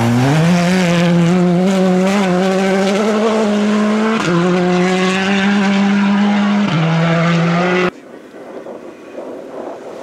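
Rally car engine revving hard and holding high revs, its pitch climbing at the start and dropping briefly twice, about four and six and a half seconds in, as it changes up a gear. About eight seconds in the engine sound cuts off abruptly to a much quieter background noise.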